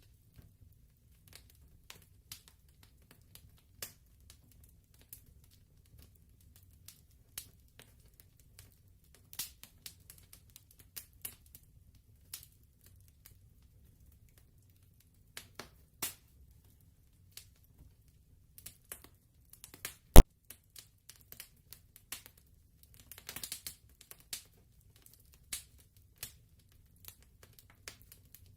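Fire crackling: scattered irregular snaps and pops over a faint low hum, with one sharp, much louder pop about two-thirds of the way through and a quick flurry of crackles shortly after.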